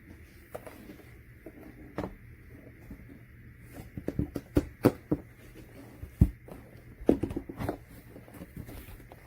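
Handling noise: a scatter of sharp knocks and clacks, thickest from about four to eight seconds in, over a faint steady hum.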